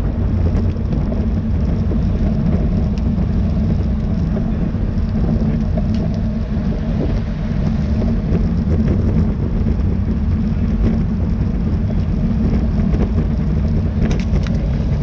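Wind buffeting the microphone of a bicycle-mounted or helmet camera as a rider moves at race speed: a loud, steady rumble.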